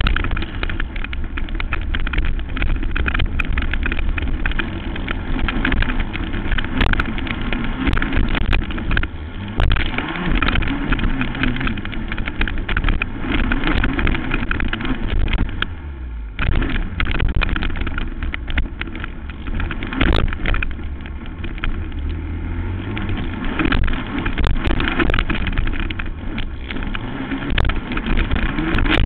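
Racing quad's engine running hard through a motocross moto, revving up and falling off again and again, with frequent sharp knocks over the rough track.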